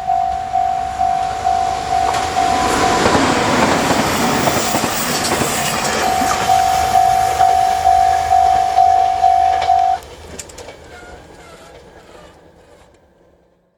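Japanese level-crossing warning bell dinging about twice a second as a train passes over the crossing, its wheels clicking over the rail joints. The passing train is loudest a few seconds in. The bell stops about ten seconds in, and the train's noise then fades away.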